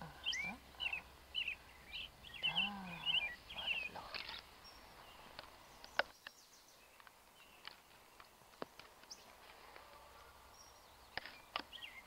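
Small birds chirping with short high calls, busiest in the first four seconds. After that it goes quieter, with a few scattered sharp clicks.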